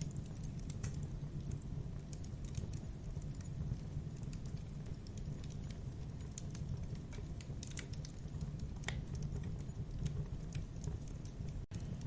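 Campfire burning: a steady low rumble of flames with frequent irregular crackles and pops of burning wood. The sound cuts out for an instant near the end.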